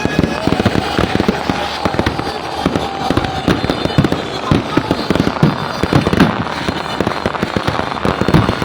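Fireworks going off in a dense, continuous barrage of many rapid pops and bangs.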